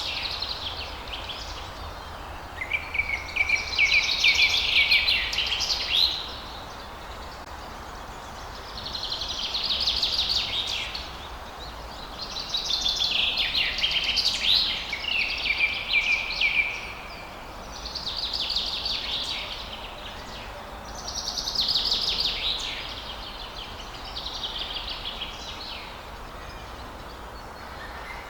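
Songbird singing: repeated phrases of rapid, high notes, each lasting a few seconds with short pauses between, over a faint steady low hum.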